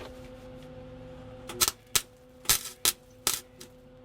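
Welder striking short arcs to tack exhaust pipe in place: about five brief crackling bursts in the second half, over a steady low hum.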